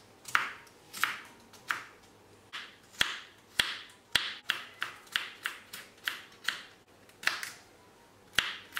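A kitchen knife chopping a carrot on a wooden cutting board. The blade strikes the board about twice a second in short sharp chops, with a couple of brief pauses.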